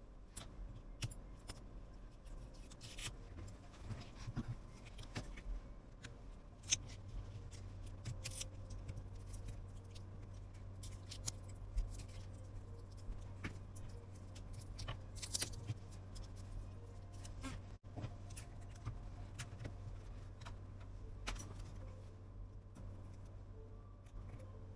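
Small hand tools clicking and tapping against an iPhone 11 during a battery replacement: irregular light clicks and scrapes. A low steady hum starts about a quarter of the way in.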